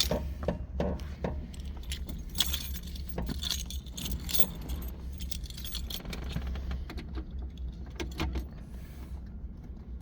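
A ring of car keys jangling, with many small metallic clicks as the keys are handled and a key is tried.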